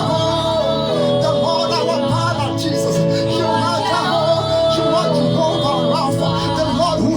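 Gospel worship music: a man singing a melody with no clear words over instrumental backing with held chords.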